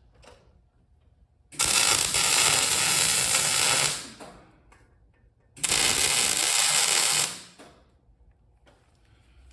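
Wire-feed (MIG) welder tack-welding steel: two bursts of arc crackle, the first about two seconds long starting near the two-second mark, the second a little shorter a few seconds later.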